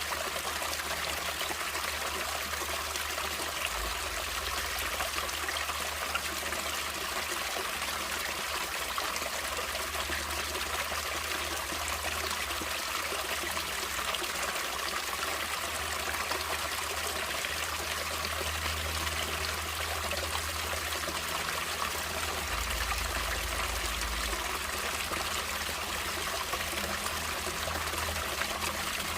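Water running in a natural stream: a steady trickling and splashing rush, brightest in the high pitches, with a faint low rumble underneath.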